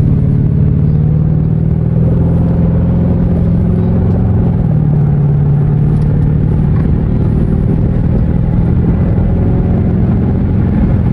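Dodge Charger R/T's 5.7-litre Hemi V8, with its resonator and mid mufflers removed, droning steadily at highway cruise, heard from inside the cabin.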